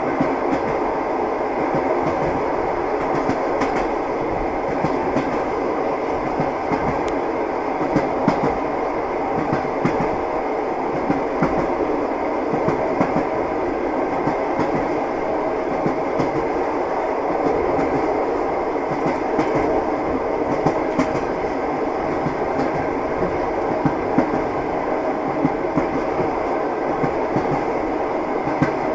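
Train wheels clicking over the rail joints, with frequent short clicks over the steady rumble of a moving railway carriage.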